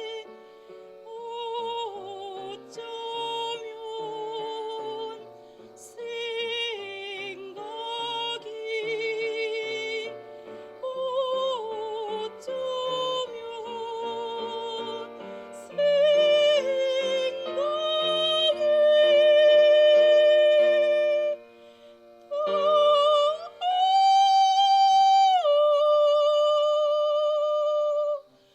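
A woman singing in classical, operatic style with wide vibrato over steady instrumental accompaniment, rising to a long, loud high held note near the end that cuts off sharply.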